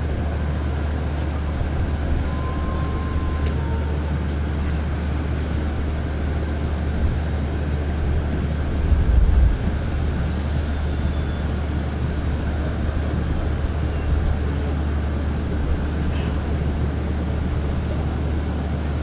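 Jet aircraft engines running steadily on the apron: a deep, even rumble with a thin, steady high whine above it, and a brief louder bump about nine seconds in.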